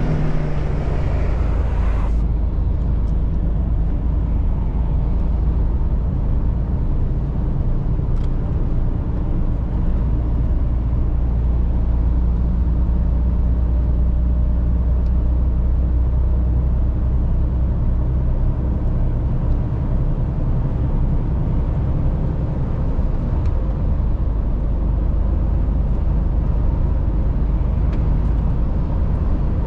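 Mercedes-Benz Actros truck under way: a steady low engine and road rumble. A higher hiss over it cuts off about two seconds in.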